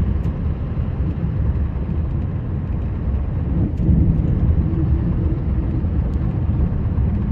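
Snowplow vehicle's engine running steadily as it drives, heard from inside the cab: a low rumble that gets a little louder about four seconds in.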